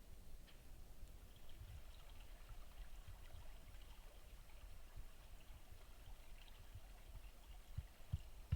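Faint low steady rumbling noise with a few soft thumps near the end, the last one the loudest.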